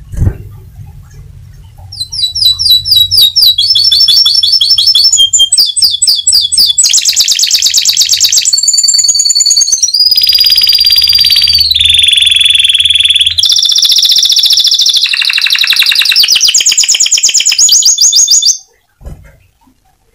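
Domestic canary singing a long, loud, unbroken song of fast high trills and rolls, switching to a new phrase every second or two. It starts about two seconds in and stops shortly before the end, with a brief low thump at the very start.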